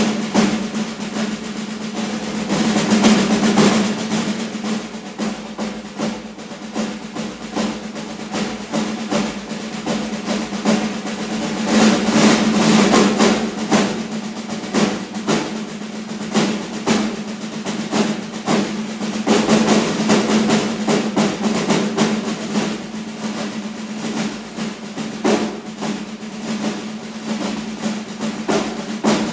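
Two drummers playing snare drums in a fast, unbroken stream of strokes and rolls. The playing swells louder and eases off several times, like a train passing.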